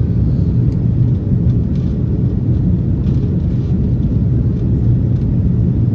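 Airbus A330-200 airliner in flight after takeoff: a loud, steady low rumble of its engines and airflow.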